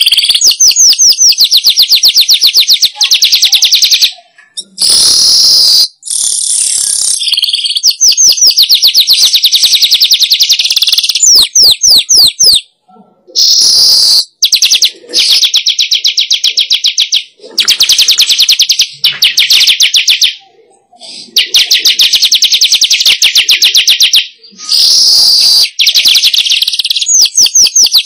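Recorded weaver (manyar) song: loud, rapid chattering trills in bouts of a few seconds, broken by short gaps and higher squeaky notes.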